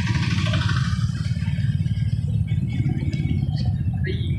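Motorcycle under way on the road: a steady engine and road rumble.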